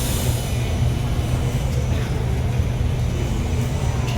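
Alstom Metropolis C830 metro train making a steady low rumble, with a high hiss fading out in the first half second.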